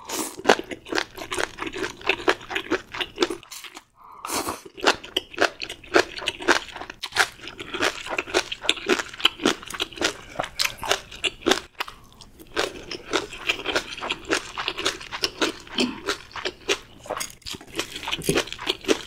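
A mouthful of spicy stir-fried octopus and bean sprouts being chewed up close, with rapid, crunchy chewing. Short pauses come about four and twelve seconds in.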